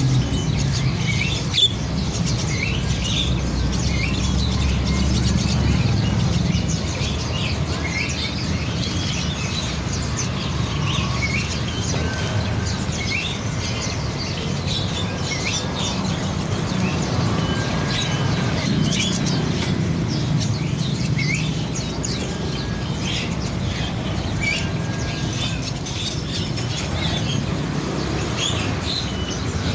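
Songbirds chirping, many short rising and falling chirps repeated throughout, over a steady low rumble.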